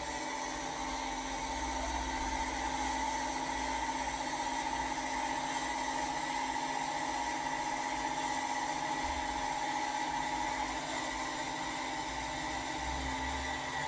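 Accurascale OO gauge Class 55 Deltic model locomotive running on the layout: a steady, even drone made of several held tones with a hiss, as the model moves smoothly under DCC control.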